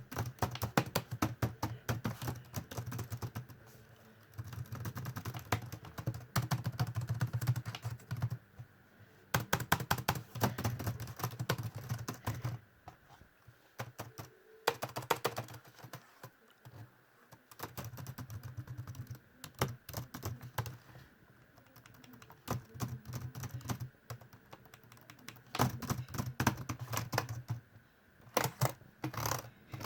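Laptop keyboard being typed on: fast runs of light key clicks in bursts of a few seconds, broken by short pauses.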